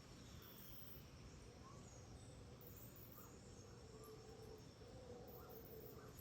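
Faint tropical rainforest dawn ambience: a steady drone of insects with scattered short bird calls.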